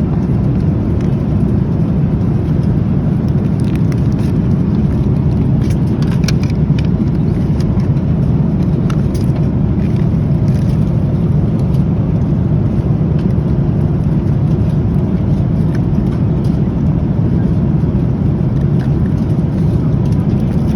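Steady low rumble of an airliner cabin in flight, with a few faint clicks and taps over it.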